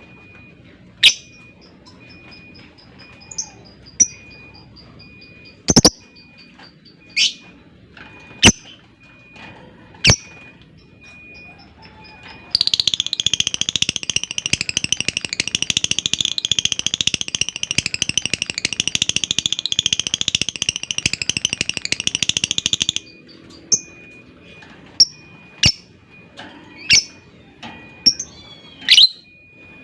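Lovebird calling: sharp single chirps, then about twelve seconds in a long, rapid chattering trill (the 'ngekek') that runs for about ten seconds and stops abruptly, followed by more sharp chirps.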